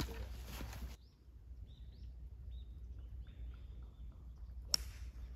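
Small birds chirping in short, rising calls over a low steady rumble, with one sharp crack near the end.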